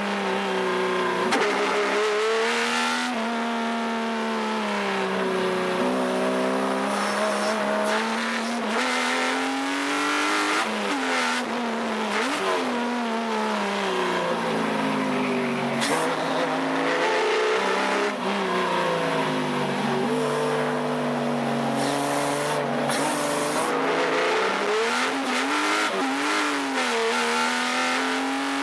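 Subaru EZ30 3.0-litre flat-six engine in a Porsche 914/6 being driven hard on a race track, its pitch climbing under acceleration and dropping on lifts and gear changes, over and over.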